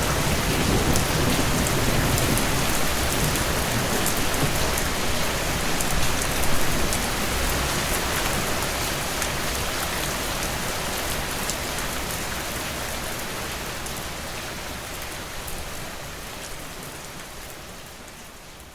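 Steady rain falling on a surface, a dense hiss with fine drop ticks, with a brief low swell about six seconds in. It fades out gradually through the second half.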